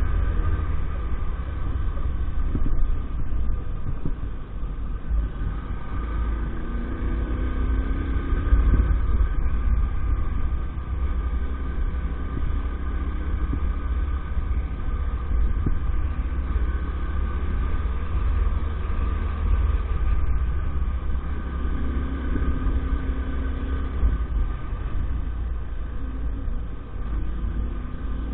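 Small 50cc engine of an EAYS Pro moped running on the move, its pitch rising and falling a few times, over a heavy low rumble.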